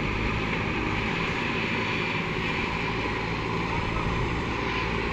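Diesel engine of heavy farm or earthmoving machinery running steadily at a constant pace.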